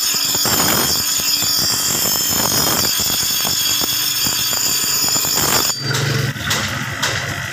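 Power tool working on steel: a loud, steady high-pitched screech over dense rattling clatter, which breaks up and changes about six seconds in.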